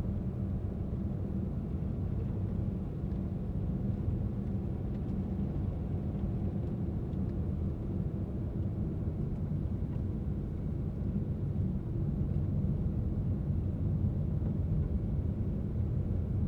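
Car driving at a steady pace: an even low rumble of engine and road noise that holds without change.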